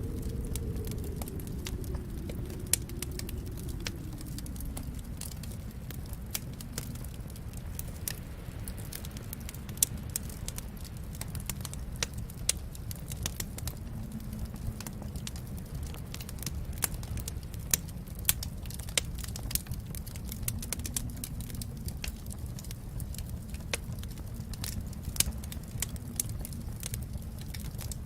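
Fireplace fire crackling: a steady low rumble of flames under constant small snaps and pops, with a few louder pops scattered throughout.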